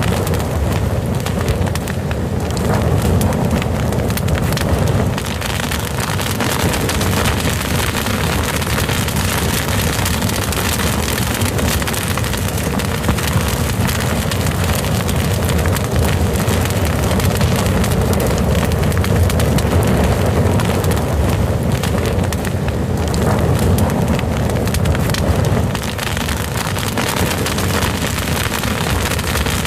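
Crackling fire: a steady low rumble of flames with a dense, continuous patter of small pops and crackles.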